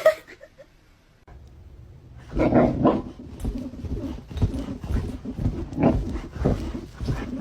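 A dog vocalising in a run of short, irregular sounds, starting about two seconds in.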